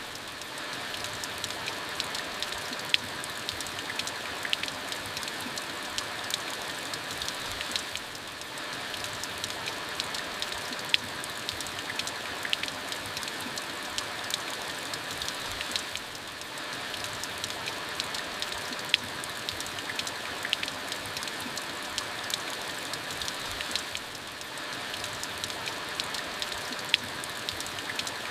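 Monsoon rain falling steadily, with many individual drops ticking sharply over the even hiss. The level dips briefly about every eight seconds.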